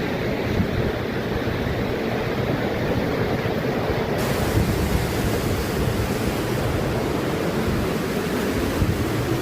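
Steady rushing of water from a waterfall or fast mountain stream, a constant loud hiss and roar; the hiss grows brighter about four seconds in.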